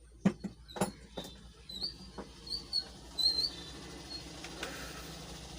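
Several sharp knocks and clicks of hard objects being handled during a ceiling fan bearing repair, mostly in the first two seconds, with short high bird chirps in the background.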